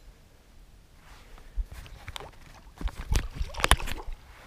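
Sharp knocks and splashy clatters, starting about a second and a half in and coming thickest and loudest near the end, as a hooked sooty grunter thrashes while it is being landed.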